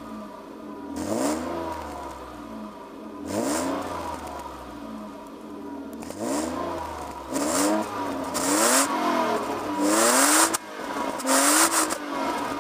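BMW M50TU 2.0-litre straight-six with its stock exhaust, idling and revved in about seven short throttle blips, each rising and dropping back to idle within a second. The blips come closer together and louder in the second half.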